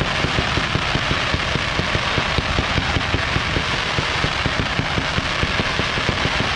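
Fireworks crackling and popping in a dense, unbroken barrage of rapid small bursts, many each second.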